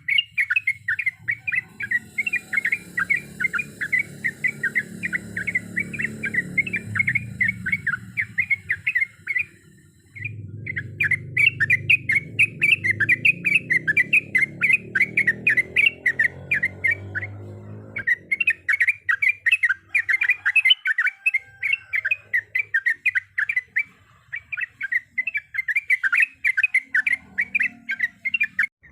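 Sooty-headed bulbul (trucukan) singing a long, fast run of short chattering notes, several a second, breaking off briefly about ten seconds in and again about eighteen seconds in.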